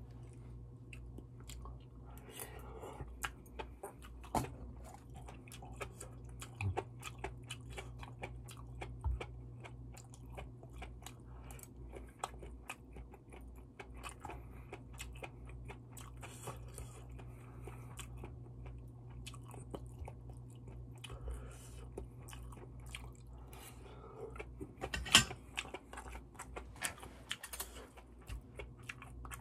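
Close-up chewing of malatang with fish cake, enoki mushrooms and sausage: a steady run of small mouth clicks and crunches, with a sharper click about 25 seconds in, over a steady low hum.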